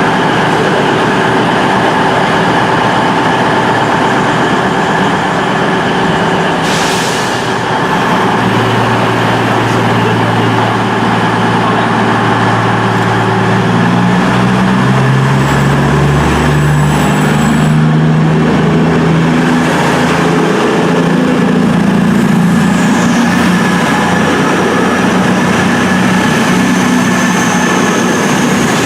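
Class 220 Voyager diesel-electric multiple unit pulling away, its underfloor diesel engines rising in pitch in steps as they power up. A high electrical whine rises over them near the end.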